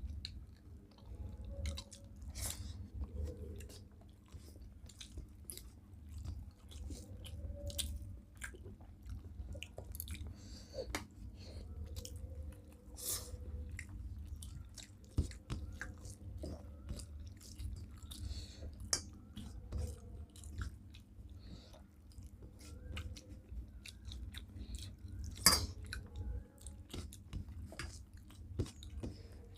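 Close-up chewing and mouth sounds of people eating a meal of rice and curry, with many small wet clicks and smacks over a steady low hum; one sharper click comes near the end.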